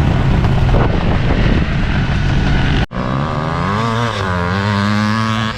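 Loud low rumbling noise, then after an abrupt cut about halfway through, a motorcycle engine running with its pitch gently rising and falling as the throttle is worked, as the bikes line up for a drag race.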